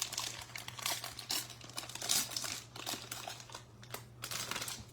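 Plastic wrapper of a Topps Heritage baseball card pack being torn open and crinkled: a run of irregular crackles that stops near the end.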